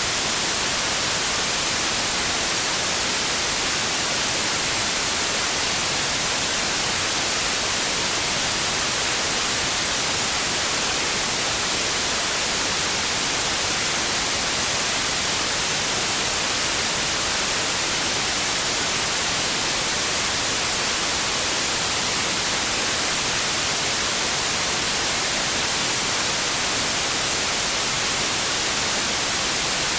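Steady white noise: an even hiss, brightest in the treble, with no change in level.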